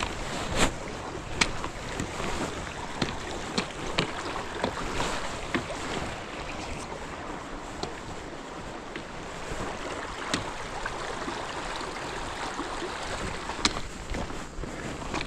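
Steady wind rushing over the microphone, with irregular sharp clicks of a hiker's footsteps on a rocky trail.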